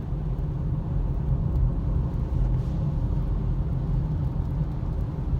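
Steady low rumble of a car's engine and road noise heard from inside the cabin while driving, with a few faint ticks.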